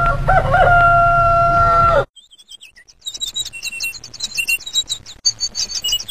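A rooster crowing: a couple of short rising notes, then one long held note that cuts off at about two seconds. Then small birds chirping rapidly and continuously.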